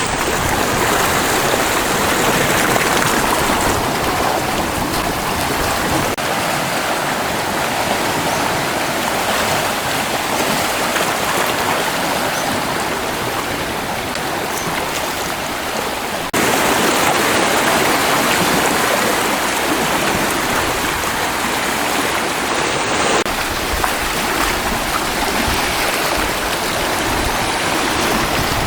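Steady rushing of wind-driven sea waves and surf, with wind buffeting the microphone. The noise jumps in level abruptly about 16 seconds in and shifts again twice more, as the footage cuts between shots.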